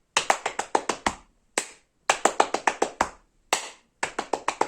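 Fast body-percussion pattern: runs of six or seven quick hand slaps on the body, each run followed by a single clap, repeating about every two seconds.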